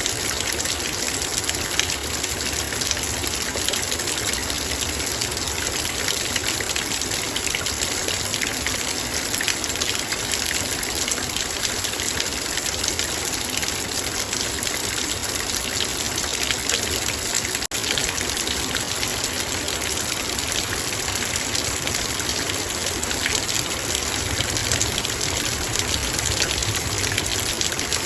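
Heavy rain drumming steadily on a metal bowl: a dense hiss of countless drops pinging on the metal. A brief dropout cuts the sound for an instant about two-thirds of the way through.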